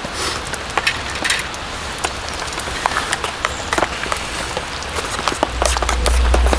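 Rain drops tapping irregularly on tent canvas over a steady patter of rain. A low rumble comes in near the end.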